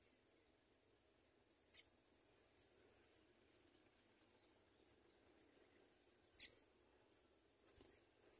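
Faint, very high peeps of house sparrow nestlings, about two or three short chirps a second, with two louder high squeaks, one about three seconds in and one at the very end, and a few soft rustles.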